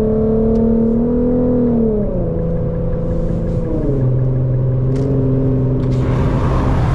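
Infiniti car engine heard from inside the moving car, its note holding, climbing slightly, then dropping in two steps about two and four seconds in, as with gear changes. Road and wind rush grows louder near the end.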